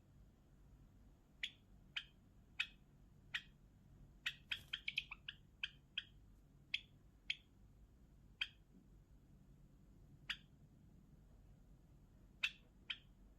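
Java sparrow calling with short, sharp chirps every half second to two seconds, breaking into a quick run of notes about four to five seconds in.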